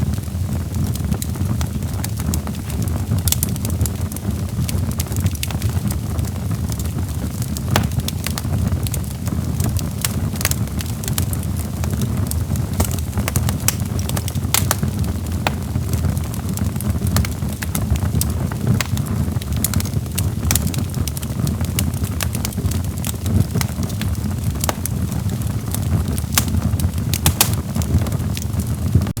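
Logs burning in a fireplace: a steady low rumble of the fire with frequent, irregular sharp crackles and pops from the burning wood.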